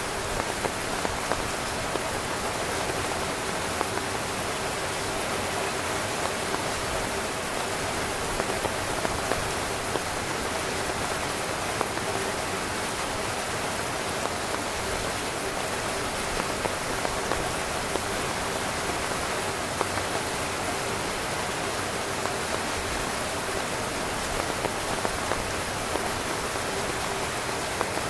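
Heavy rain falling steadily on a camping tent: a dense, even hiss dotted with scattered louder drop hits.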